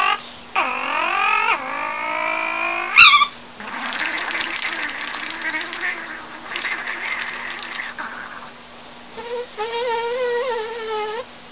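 Sped-up, chipmunk-pitched vocal noises from a child: a long swooping squeal, a sharp loud yelp about three seconds in, then breathy raspy noises, and a high wavering warble near the end.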